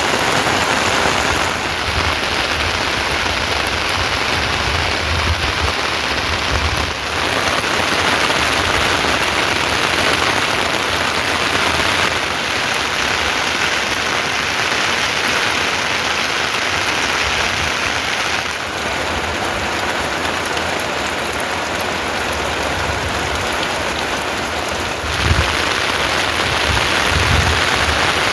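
Steady heavy rain falling on surfaces, a dense even hiss. Its character shifts a few times, and there are brief low rumbles near the end.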